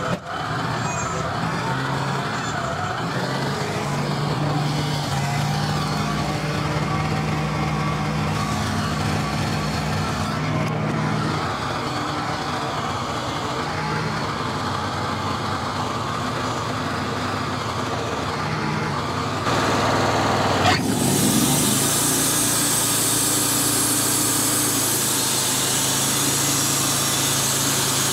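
Wood-Mizer portable band sawmill running, its engine steady with small shifts in tone. About twenty seconds in the sound gets louder, with a short sharp noise, and a steady high hiss continues after it.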